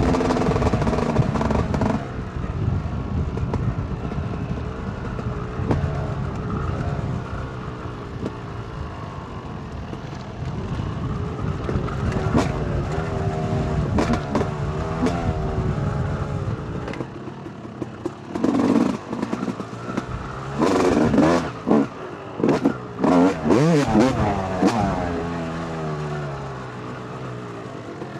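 2008 Yamaha YZ250 two-stroke dirt bike engine being ridden hard, its pitch climbing and falling through the gears. In the second half it comes in short surges of throttle with quick drops between them.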